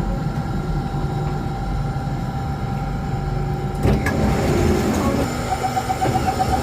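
Alstom Metropolis C830 metro train running, heard from inside the car: a steady low rumble with a constant whine. A single sharp clunk comes about four seconds in, and a pulsing tone starts near the end.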